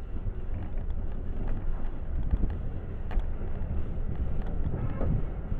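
Wind buffeting the microphone: a steady low rumble with a few faint knocks.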